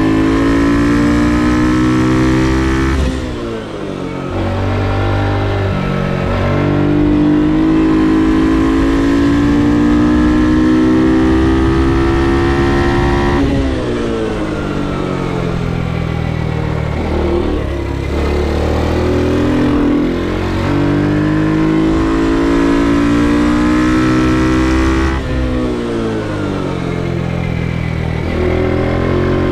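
Ohvale GP2 110 mini racing motorcycle's small four-stroke single revving hard on a track lap: the engine note climbs in long pulls, then drops sharply off the throttle, about four times, around 3, 13, 20 and 25 seconds in.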